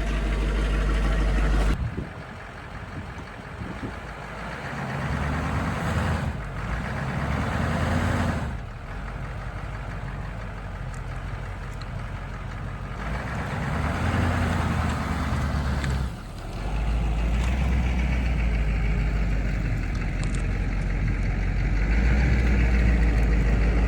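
Chevrolet Duramax diesel engine running shortly after a cold start, its note rising and falling several times as the truck is driven.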